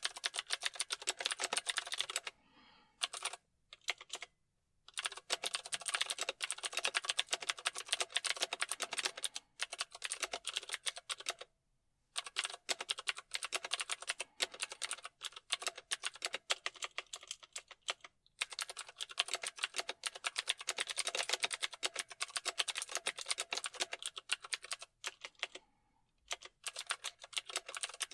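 Typing on a computer keyboard: fast, continuous runs of key clicks broken by a few brief pauses.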